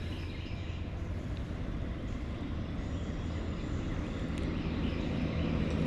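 A motor vehicle's engine running with a steady low hum, growing slowly louder as it approaches.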